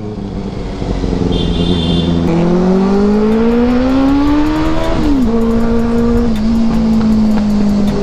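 Benelli 600i's inline-four engine pulling hard through a gear, its pitch rising for a few seconds before a sudden drop at an upshift about five seconds in. It then runs steadily at cruising speed.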